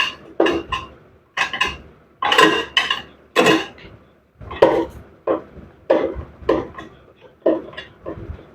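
Metal tools knocking and clinking against the metal parts of a washing machine's gearbox assembly as it is unbolted: a string of irregular ringing clanks, about one every half second.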